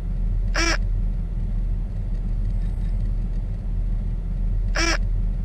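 Steady low rumble of a car engine running, with two brief high-pitched squeaks, one about half a second in and one near the end.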